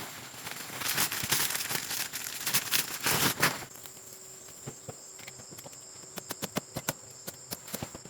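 Rustling and handling noise for about the first three and a half seconds, then a run of light, irregular taps and clicks, over a steady high insect drone.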